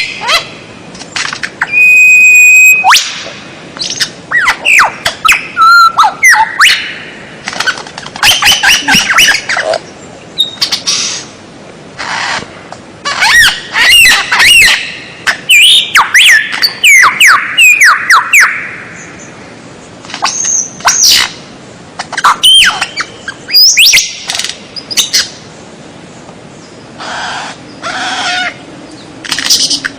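Loud songbird song from a masteran training track: fast, varied phrases of chirps, sweeping whistles and rattling trills, in bursts with short gaps, including one held steady whistle about two seconds in.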